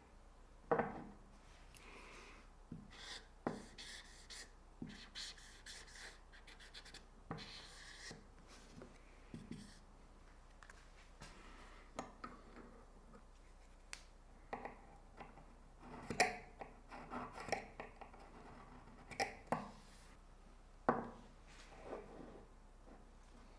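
Small metal parts and hand tools being handled on a workbench: scattered light clinks and knocks with short scraping sounds in between, busiest in the second half.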